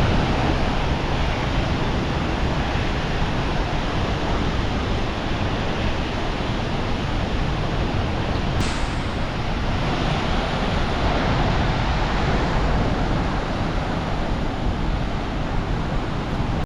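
Loud, steady rush of a large waterfall's falling water, an even noise with no breaks.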